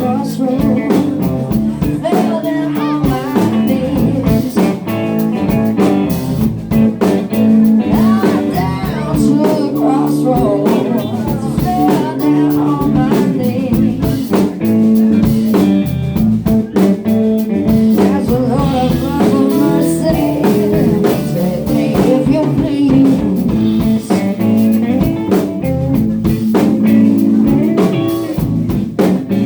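Live band jamming: guitars, bass and drum kit playing together at full volume with a steady beat.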